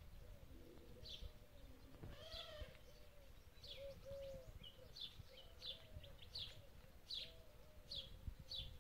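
Faint small birds chirping: short high calls that sweep downward, repeated about once or twice a second, over a lower wavering call.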